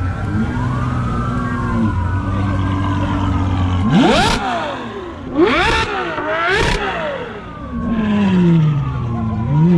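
Car engine idling, then revved hard three times in quick succession, each rev rising sharply and dropping back, followed by a falling engine note near the end.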